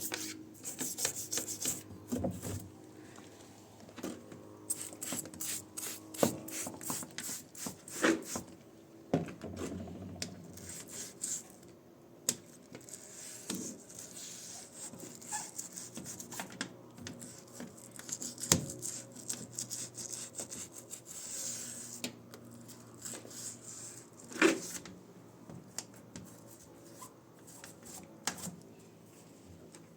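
Irregular scrubbing and rubbing strokes with scattered clicks and a few sharper knocks: a front-load washing machine being scrubbed clean by hand.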